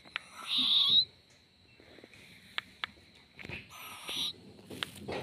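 Owlet giving two raspy, hissing calls, one about half a second in and another later on, with a few sharp clicks between them.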